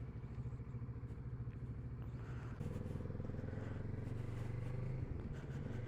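Kawasaki Z650RS parallel-twin engine running steadily while riding, heard low and muffled at the rider's microphone; the engine note grows a little louder about two and a half seconds in.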